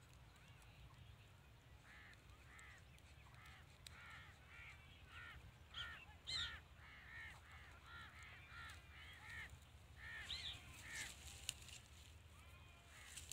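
Faint, harsh bird calls: short arched notes repeated two or three times a second, starting about two seconds in and stopping near the end.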